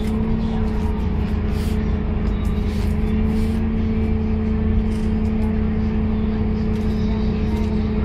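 Scania K230UB city bus running at a steady pace, heard from inside the passenger cabin. Its drive makes a constant low drone with an even hum, and small rattles and clicks of the bodywork come through over it.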